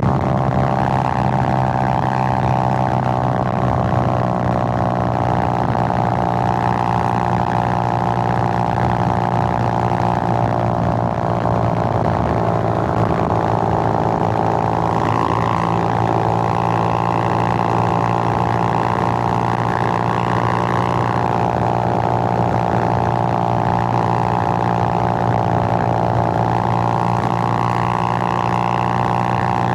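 Suzuki GN125's single-cylinder four-stroke engine running steadily while the bike is ridden, its note drifting slightly up and down with the throttle.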